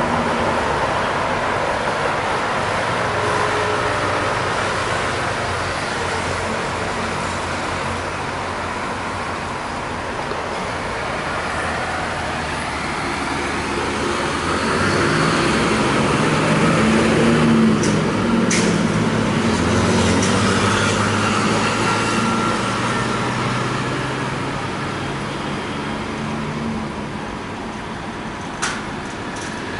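Passenger train running, heard from an open carriage window: steady rumble of wheels on rails and rushing air, with a low drone that swells about halfway through. A couple of sharp clicks sound near the middle and near the end.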